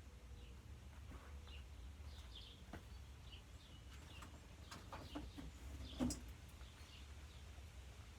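Vintage TAT 48-inch four-blade ceiling fan coasting down with its power off: a faint steady low hum, with scattered faint high chirps and a single knock about six seconds in.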